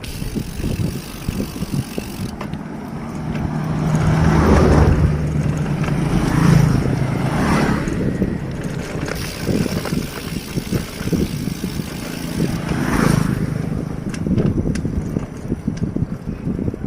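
Wind buffeting the microphone of a moving bicycle rider, with a motor vehicle's engine hum swelling and fading about four seconds in and a shorter swell near the end.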